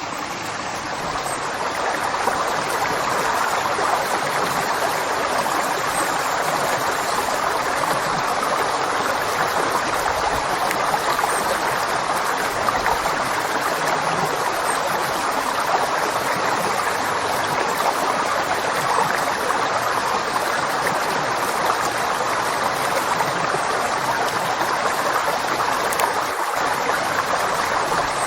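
River water flowing steadily, a continuous rushing noise that fades in over the first couple of seconds and then holds even.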